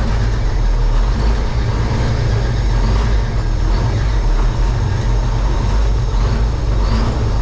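Multifuel diesel engine of an M51 5-ton 6x6 military dump truck running steadily with a low drone.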